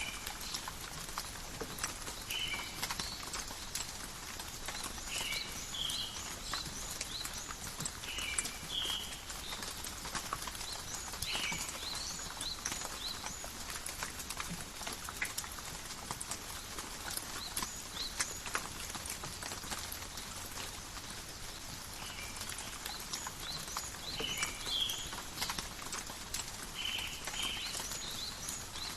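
Steady rain falling in a forest, with a constant hiss and many separate drops tapping and dripping. Short high chirps come back every few seconds.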